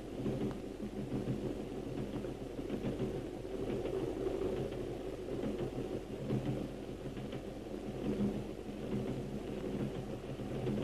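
Steady low rumble of a train under way.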